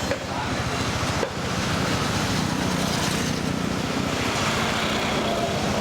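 Wind buffeting the microphone over a small scooter engine running steadily while riding.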